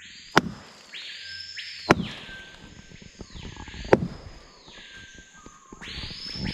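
Three loud, hollow knocks about a second and a half to two seconds apart, each with a short echo, as the trunk of a 'telephone tree' is struck to send a signal through the forest. Insects buzz in rising and falling swells underneath.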